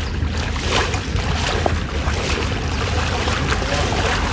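Storm noise: wind buffeting the microphone with a heavy low rumble over a steady rush of wind and water.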